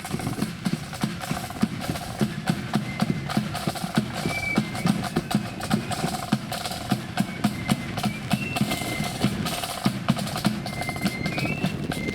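Marching band playing: a rapid steady drumbeat of snare and bass drum with a thin, high melody line of held notes above it.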